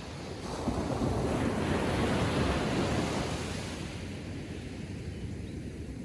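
Small ocean wave breaking on the beach and washing up the sand, swelling about half a second in and then fading as the water draws back.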